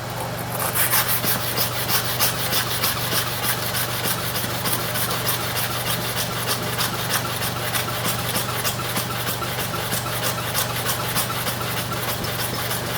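Hair-clipper blade being rubbed back and forth on a sharpening stone charged with abrasive paste. It makes a rapid, even run of gritty strokes, several a second, beginning about half a second in.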